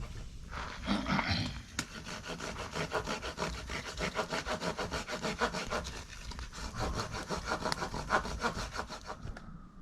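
Fast, even rasping strokes, about six a second, like a saw or scraper worked on wood, running for several seconds and stopping shortly before the end.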